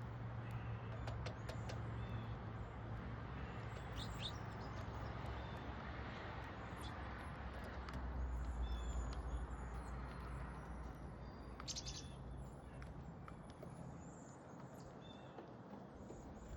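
Small backyard songbirds at a feeder giving short, high chirps, with scattered sharp ticks. A steady low rumble runs underneath and swells about halfway.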